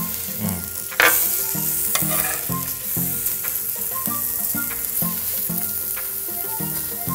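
Pork sausage patties and eggs sizzling on a hot flat griddle, with a metal spatula scraping and tapping the griddle surface as the patties are turned; a sharp clack about a second in.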